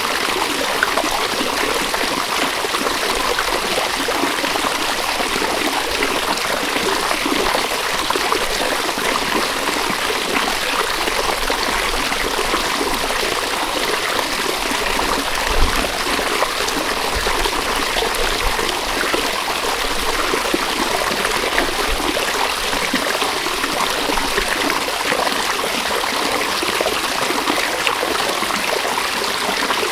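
River water flowing steadily, a continuous rushing and trickling with no pauses. A brief low thump sounds about halfway through.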